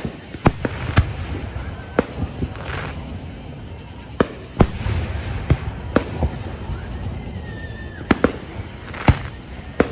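Fireworks going off in a show: about a dozen sharp bangs at irregular intervals, a few in quick pairs, over a continuous low rumble of bursts.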